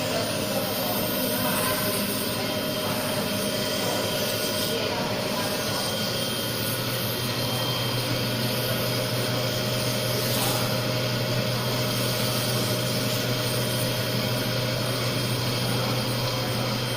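GD-01 small CNC cylindrical grinder running: a steady whir and hiss from the grinding wheel spindle and work head, with a low hum joining about six and a half seconds in.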